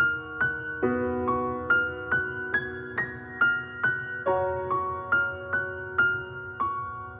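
Soft, sad piano music: a slow melody of single struck notes, about two a second, ringing over held chords.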